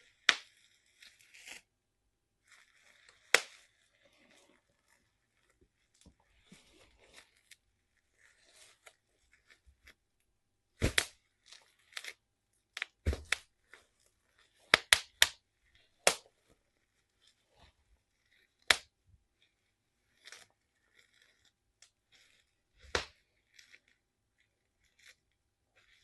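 Bubble wrap popping and crinkling under bare feet: sharp single pops at irregular intervals, a dozen or so loud ones, with softer crackling of the plastic between steps.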